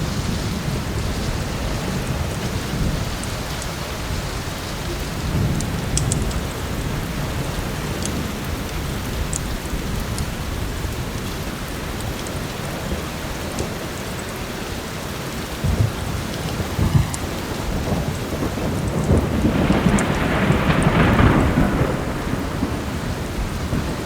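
Steady heavy rain with low rolls of thunder, the loudest rumble swelling up about twenty seconds in. A few faint sharp crackles from a fireplace.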